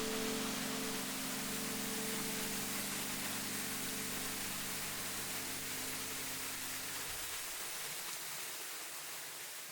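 Steady rushing of a waterfall, with the last held notes of background music dying away about seven seconds in; the whole sound slowly fades out.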